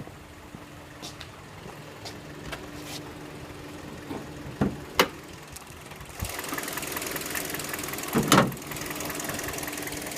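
2010 Kia Forte's 2.0-litre four-cylinder engine idling with a loud ticking, clicking clatter, which the owner believes comes from something in the cylinder head and not the bottom end; it goes away under load. The sound grows louder about six seconds in.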